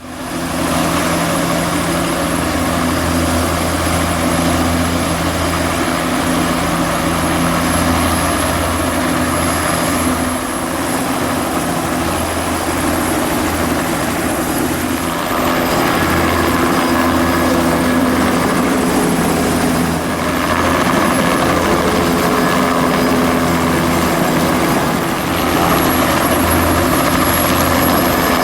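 Turbine helicopters running, with a steady low rotor thrum and a thin high turbine whine over it.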